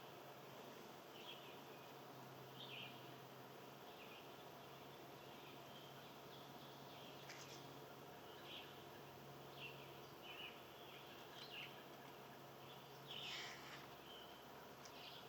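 Faint wild birds chirping and calling in short, scattered notes, a little louder about 13 seconds in, over a steady faint low hum.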